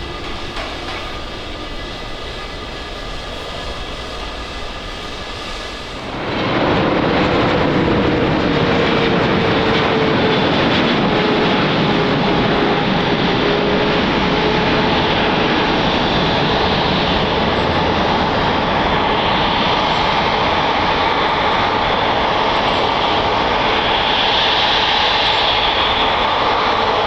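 Jet airliner engines. First there is a quieter whine of several steady tones. About six seconds in, an abrupt jump brings a much louder jet roar with a slowly falling tone through it.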